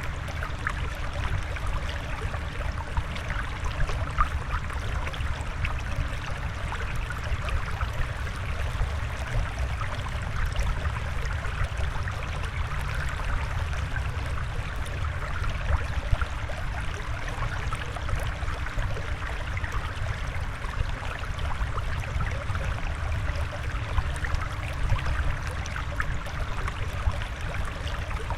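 Steady flowing, trickling water, with a low rumble underneath.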